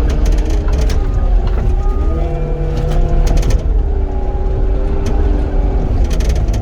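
Caterpillar 259D compact track loader's diesel engine running under load, its pitch sagging and recovering a few times as it works, with scattered sharp knocks and rattles.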